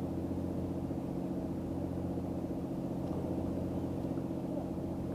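An engine running steadily, a low hum that holds one pitch.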